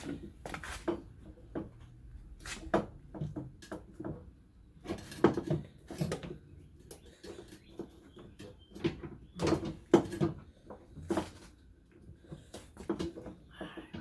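Irregular clicks, knocks and light rattles of parts being handled and fitted into place by hand during a fuel filler neck installation.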